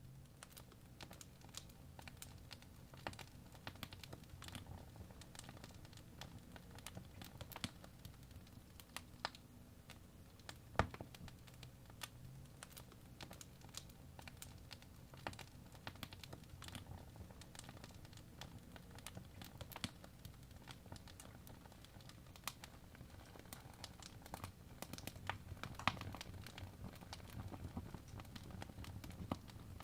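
Faint crackling wood fire: irregular sharp pops and snaps over a low steady rumble, with a louder pop about eleven seconds in.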